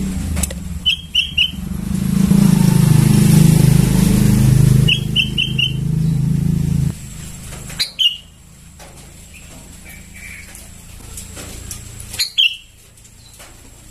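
Young sooty-headed bulbul chirping: short high notes in quick runs of three and four, then single calls. A loud engine hum runs under the first seven seconds and then cuts off.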